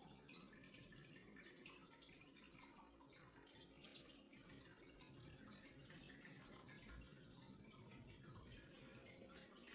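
Near silence: quiet room tone with faint, scattered little ticks.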